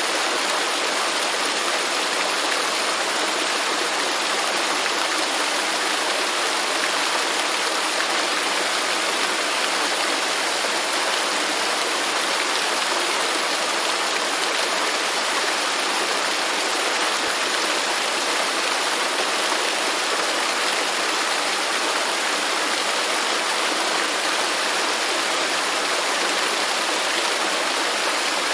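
Waterfall rushing steadily: a constant, even wash of falling water with no breaks.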